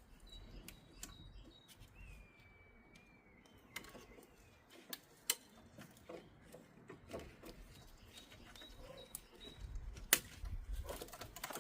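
Scattered clicks and light knocks of hands working at the plastic clips and cable ties of a van's wiring loom, the sharpest about 5 s and 10 s in. A faint high chirp glides about 2 s in.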